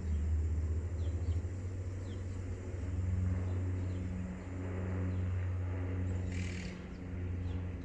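A steady low engine hum, rising and falling a little, with a brief hiss about six seconds in.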